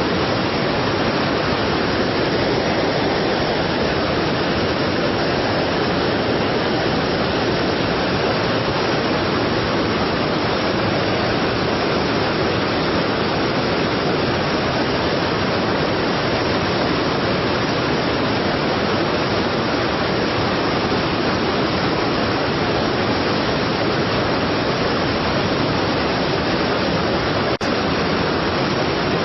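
Steady, even rushing of a strong waterfall, with a single brief click near the end.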